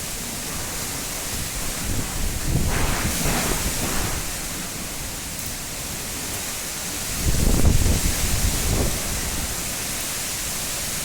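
Heavy rain falling in a steady hiss. Two spells of low rumbling gusts, about three and seven seconds in, break through the hiss.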